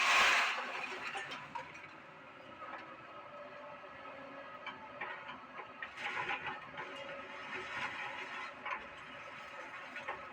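Excavator at work handling scrap iron: the machine runs steadily under scattered clicks and clanks of metal, with a loud rush of noise at the start and a busier stretch of clatter about six seconds in.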